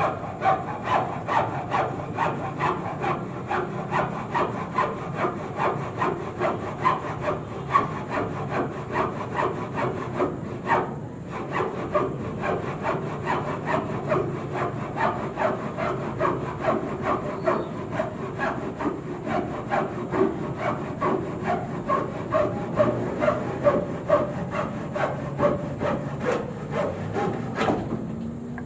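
Handsaw cutting through wood in steady back-and-forth strokes, about one and a half a second, with a brief pause about eleven seconds in.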